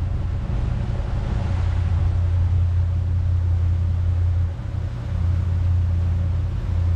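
Motorboat engine running steadily under way, a low drone that dips briefly about four and a half seconds in.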